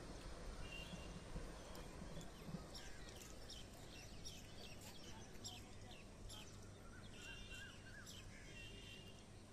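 Faint birds calling over a low, steady outdoor background noise: a run of quick, falling chirps through the middle, a short warble, and a brief trill repeated a few times.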